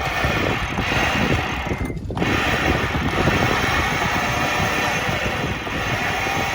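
A sailboat winch being worked under load to haul in a line, its ratchet clicking continuously with a short pause about two seconds in.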